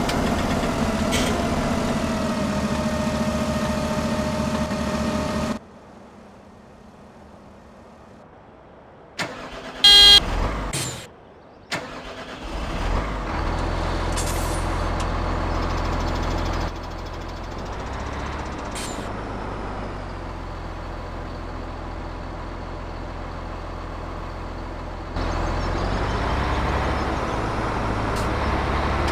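Vehicle engines running in a series of abruptly cut segments, with a quieter stretch about six seconds in and a short, loud pitched tone like a horn about ten seconds in.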